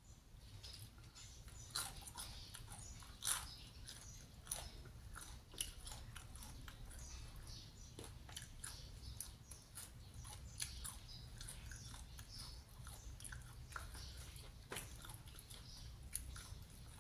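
A person chewing and biting food close to the microphone, with scattered small crisp crunches and mouth clicks, over a faint low steady hum.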